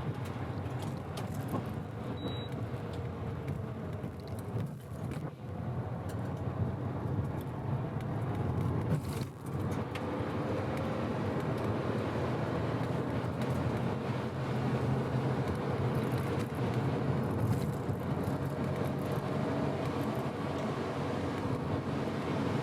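Mazda FD3S RX-7's twin-rotor rotary engine running under gentle load while driving, its pitch rising and falling slowly with road noise underneath. The engine has been rebuilt after a blow-up and is being run in, so acceleration is kept mild. A short high beep sounds about two seconds in.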